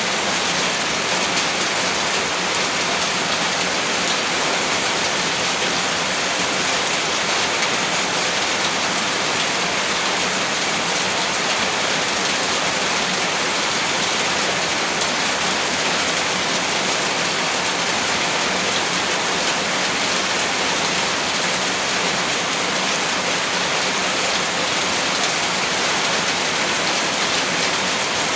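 Heavy rain falling steadily, a dense even hiss with fine drop ticks on a surface.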